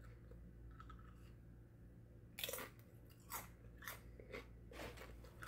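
A person chewing crisp tortilla chips close to the microphone: quiet at first, then a run of sharp crunches about every half second from midway on.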